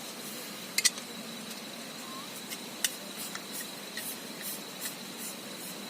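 Several sharp clicks and light knocks over a steady hiss with a thin high steady tone. The loudest is a double click about a second in; another click comes near the middle, and fainter ticks follow.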